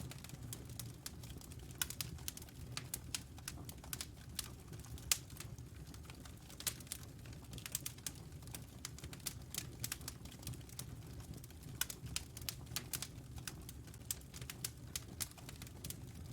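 Wood fire crackling in a fireplace: irregular sharp crackles and snaps, several a second with the odd louder pop, over a low steady rumble of the flames.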